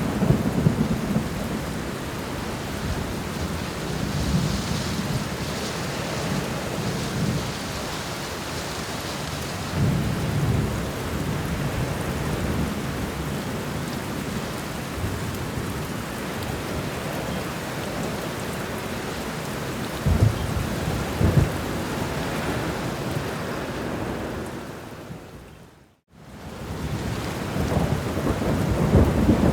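Steady rain with thunder rumbling low several times and two sharper claps about twenty seconds in. The sound fades out to silence at about twenty-six seconds and fades back in.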